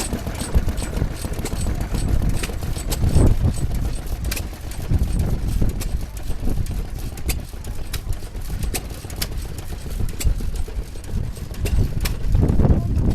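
Old engine running with a deep rumble and a light, regular ticking.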